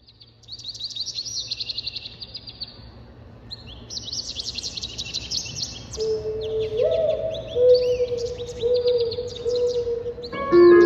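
Birdsong opening a show soundtrack: rapid, high chirping trills. A slow line of low held notes joins about six seconds in, and fuller music with chords starts near the end.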